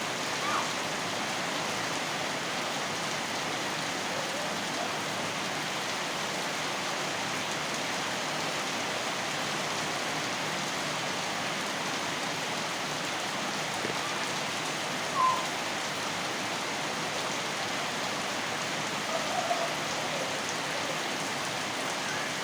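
Steady rain falling and pattering on surfaces, an even hiss throughout. A brief louder sound rises above it about fifteen seconds in, with a few short ones near twenty seconds.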